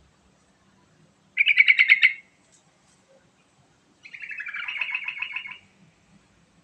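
Sooty-headed bulbul singing two quick bubbling phrases of rapidly repeated notes. The first is short and loud at about a second and a half in. The second is longer and a little softer at about four seconds in, with some notes stepping downward.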